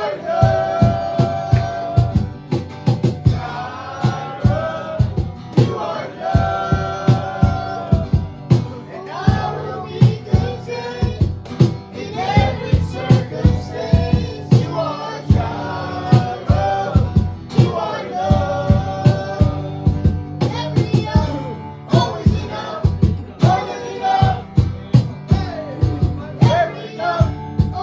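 Live worship band music with a steady, driving drum beat under held melodic lines that sound like singing.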